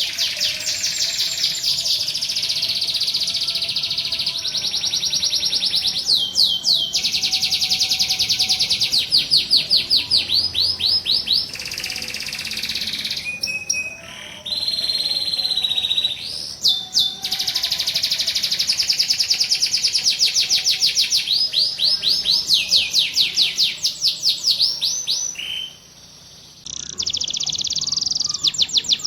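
Domestic canary singing a long, high song of rapid trills and rolls, each phrase a fast run of repeated notes, with brief breaks between phrases.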